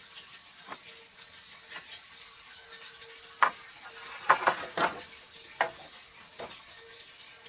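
Insects droning in one steady high tone, with a handful of sharp knocks clustered around the middle, the kind made by working or handling wood.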